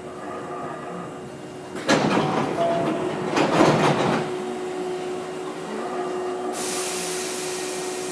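Former Hankyu 5100 series electric train standing at a station, with a steady hum from its on-board equipment. A loud clatter lasting about two seconds comes two seconds in, and a sharp hiss of compressed air starts suddenly near the end.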